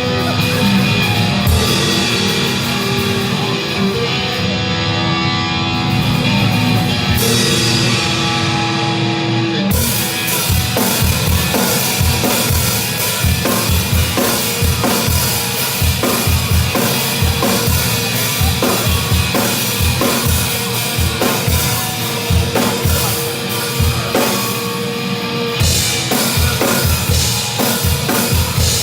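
Drum kit played along to a heavy metal track. For the first ten seconds the track's guitars and bass carry it with cymbals over them; then the full kit comes in with fast, steady bass-drum strokes and crashing cymbals.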